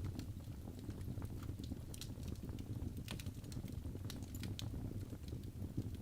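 Wood fire of burning logs crackling: irregular sharp pops and snaps over a steady low rumble of the flames.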